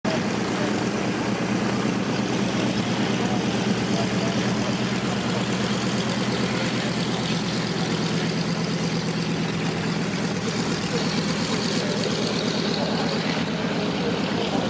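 Piston aircraft engine running steadily at a constant speed, with a low, even engine note and a wash of noise.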